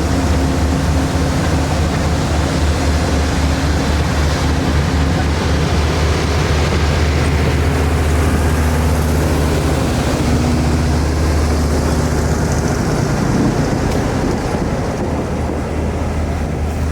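A moving train, with a steady rolling rumble of wheels on rail over a strong low drone. It eases off a little near the end.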